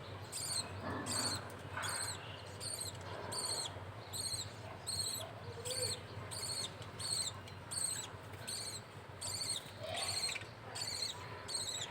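Budgerigar chick begging to be fed: a steady train of high-pitched cheeps, about two a second, each dipping in pitch at its end.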